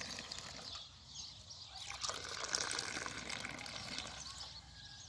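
Tea being poured into a glass, a trickling pour that breaks off just under a second in and starts again about two seconds in.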